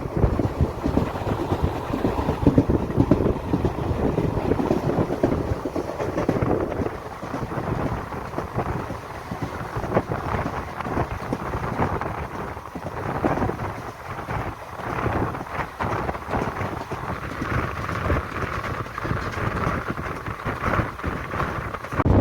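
Train running: a steady rumbling, rattling noise of wheels and coaches on the track.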